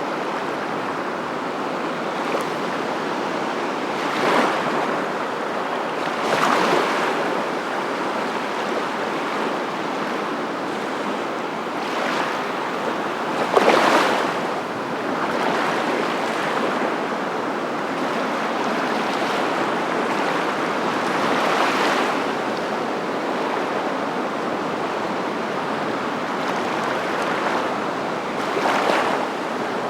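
Continuous rushing of surf, swelling louder every few seconds as waves break, loudest about halfway through.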